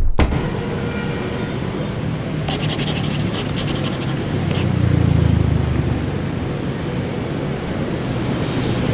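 Street traffic noise, with a vehicle engine passing that is loudest about five seconds in.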